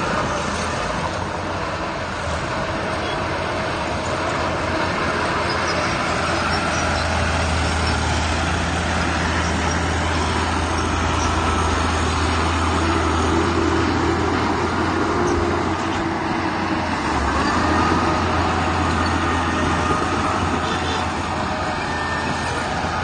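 Diesel engines of heavy earthmoving machinery running steadily: a low engine hum under constant mechanical noise.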